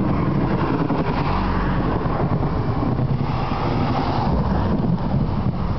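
Storm wind gusting across the microphone, a loud, rushing noise that swells and eases, with no distinct thunderclap.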